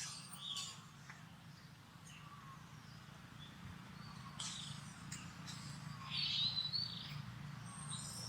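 Macaques calling: a few short, high squeaky calls, the loudest about two-thirds of the way through, over a low steady hum.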